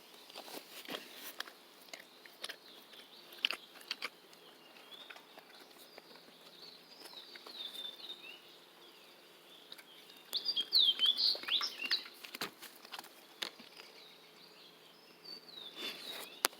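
A dog licking a rain-wet outdoor couch: scattered wet clicks and smacks. Small birds chirp throughout, with a burst of louder chirping about two-thirds of the way through.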